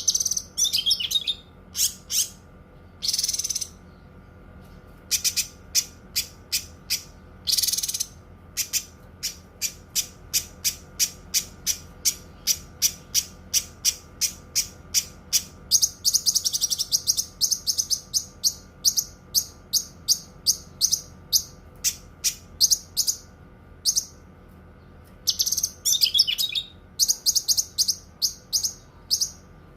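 Cucak kinoi singing: a long run of sharp, high chips at about three a second, broken twice by longer rasping trills.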